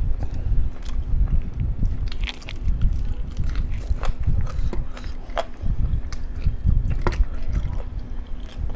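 Chewing a mouthful of spiced rice and fried chicken, loud and close, with wet smacking and scattered sharp mouth clicks.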